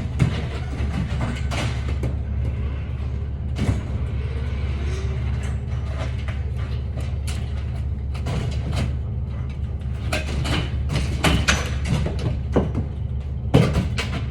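Steady low machine hum with irregular clicks, knocks and rattles, which come thickest in the second half.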